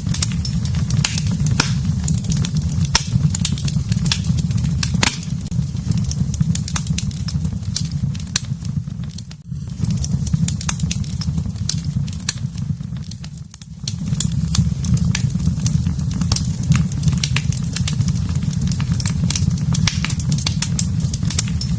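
Wood fire burning in a fireplace: a steady low rumble of flames with frequent sharp crackles and pops. The sound dips briefly twice near the middle.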